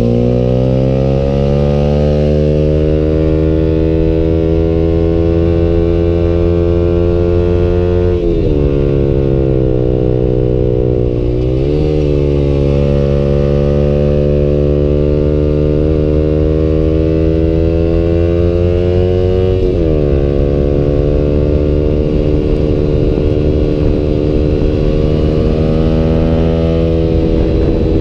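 Yamaha YZF-R15's single-cylinder engine through a Tridente F21 full-system aftermarket exhaust, heard from the bike while riding. The engine note climbs steadily in pitch and drops sharply about eight seconds in and again about twenty seconds in.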